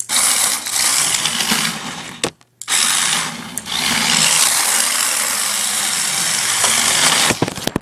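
Toy RC drift car's small electric motor and gearbox whirring at full throttle, with a brief stop about two seconds in before it runs again, then cutting off near the end.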